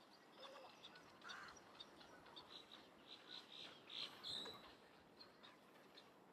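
Faint birdsong over soft outdoor hiss: short, high chirps from a small bird, with a quick run of notes about three to four and a half seconds in.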